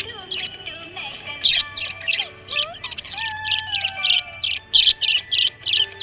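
Budgerigars chirping: a run of short, high chirps repeated about two to three times a second.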